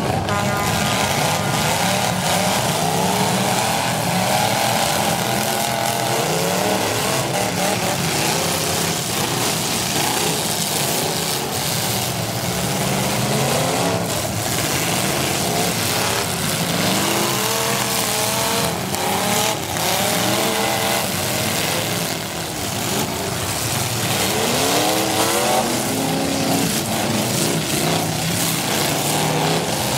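Several V8 derby car engines revving up and down over and over, overlapping one another, with a few short bangs among them.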